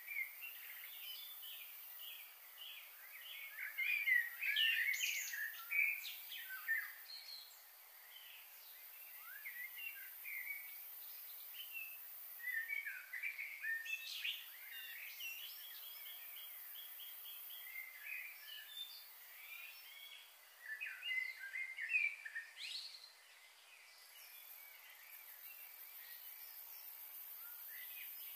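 Small birds chirping: many quick, short notes in busy bursts several times, with quieter stretches between.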